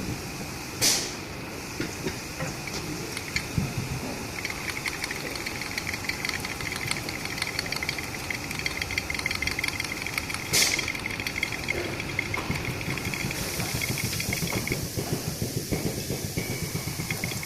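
A machine running steadily with a fast, fine ticking, broken twice by a short sharp burst of hiss: once about a second in and again about ten seconds in.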